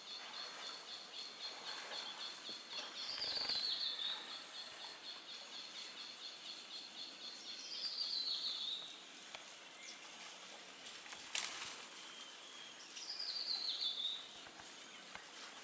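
Rainforest clearing ambience: a bird gives a short falling call three times, about five seconds apart, over a high, rapidly pulsing trill that stops about halfway through. A single sharp click comes about eleven seconds in.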